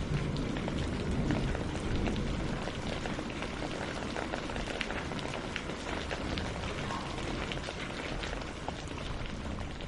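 Steady rain falling on leaves and on a lake's surface, many separate drops ticking over a low wash and rumble.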